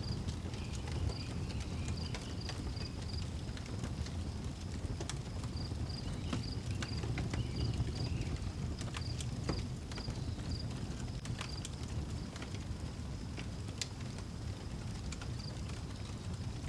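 Wood fire crackling, with scattered sharp pops over a low steady rumble. A cricket chirps throughout in short, high pulses repeated at regular intervals.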